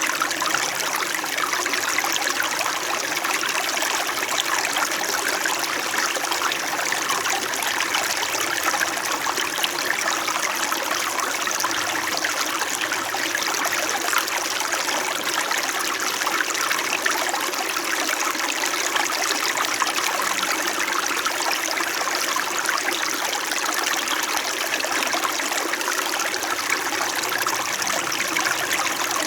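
Small mountain stream flowing steadily over rocks, a continuous babbling trickle of water.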